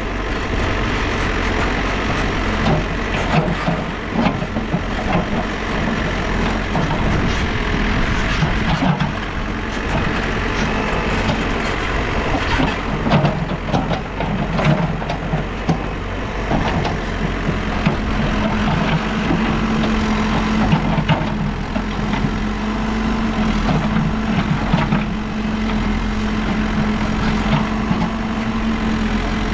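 New Holland backhoe loader's diesel engine running under load, with frequent knocks and clatter on top. From about 19 seconds in the engine holds a steady, slightly higher note.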